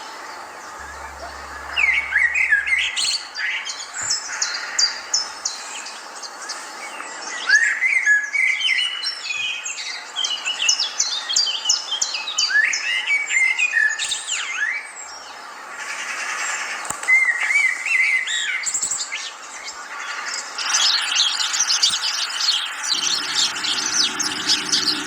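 Songbirds singing and chirping: a whistled phrase of rising notes recurs about every five seconds among quick, high repeated chirps. A low steady hum comes in near the end.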